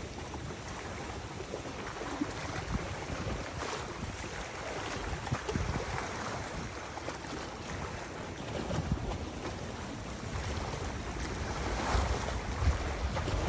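Wind gusting against the microphone as a low, uneven rumble, over a steady rush of moving river water.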